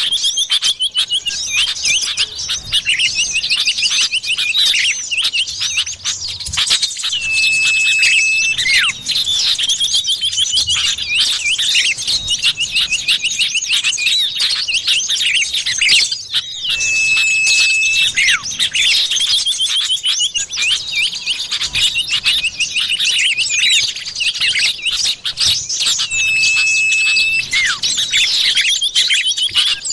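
Common iora (cipoh) calls from a bird-lure recording: dense, rapid chirps and trills, with a level whistled note about a second and a half long recurring roughly every nine seconds.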